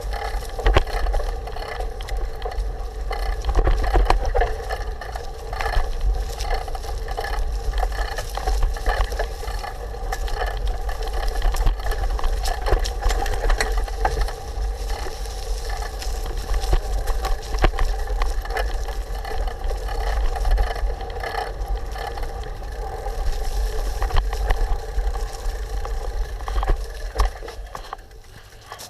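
Bicycle riding over a dirt trail: wind buffeting the camera microphone, with the tyres humming steadily and the frame rattling and clicking over bumps. The noise drops away near the end as the bike comes to a stop.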